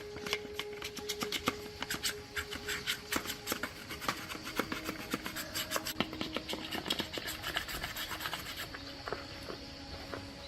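Rapid, repeated scraping and rubbing strokes of a hand tool working a part.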